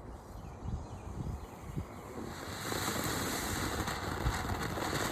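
Wind rumbling on the microphone, then about two and a half seconds in a lit Sundance ground fountain firework starts spraying sparks with a steady hiss.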